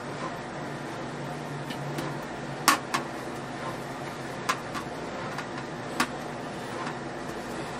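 A few sharp knocks and clicks from items being handled and set down during cleaning, over a steady hum. The loudest knock comes just under three seconds in, with others shortly after, around halfway, and about six seconds in.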